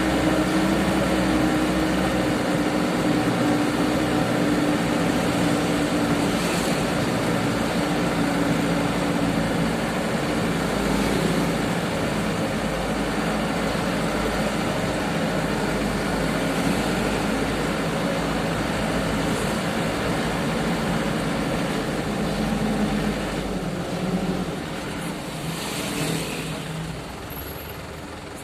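Engine of a loaded sugarcane truck running steadily, fading away over the last few seconds.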